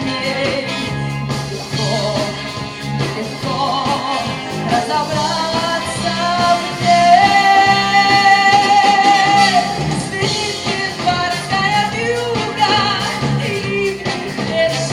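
Live rock band playing an instrumental passage of the song, with a melodic lead line over the band that holds one long note in the middle.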